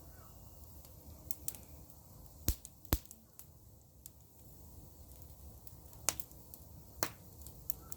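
Wood fire of dry pruned grapevine branches crackling, with sharp pops at irregular intervals, the loudest about two and a half and three seconds in.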